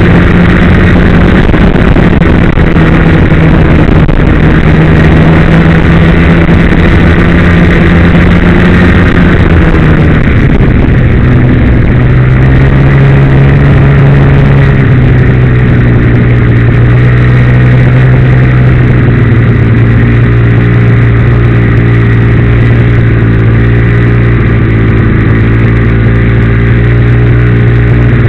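Ski-Doo Blizzard MX snowmobile's two-stroke engine running loudly and steadily. About ten seconds in, the engine speed drops to a lower, steady pitch.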